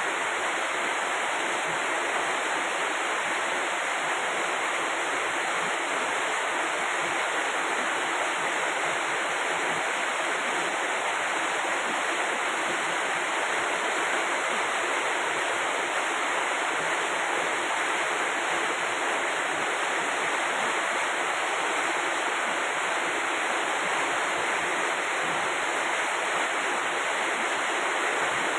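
Heavy rain falling, a steady hiss that does not change.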